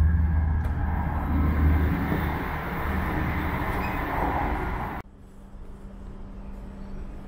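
Inside a Tohoku Shinkansen train arriving at the station: a deep running rumble with a broad rush that eases as the train slows. About five seconds in it cuts abruptly to a much quieter steady low hum of the train standing at the platform.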